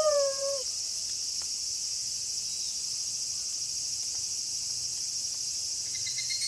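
Steady night chorus of crickets, a high, finely pulsing chirring, as the tail of a wolf howl slides down in pitch and dies away in the first half second. Faint high steady tones come in just before the end.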